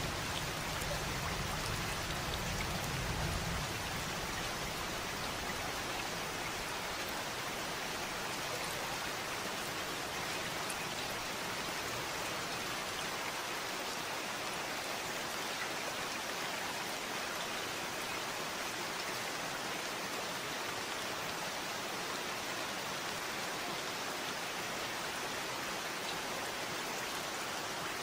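Steady rain falling, an even hiss of many drops. A low rumble underneath fades out about three seconds in.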